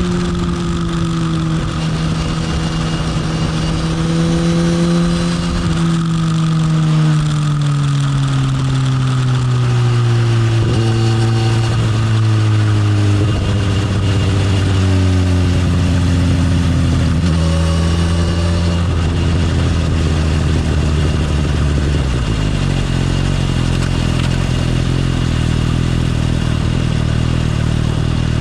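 Motorcycle engine, its note falling steadily over the first dozen seconds as the bike slows down. It then runs low and steady, and drops to a lower, idle-like note about 22 seconds in.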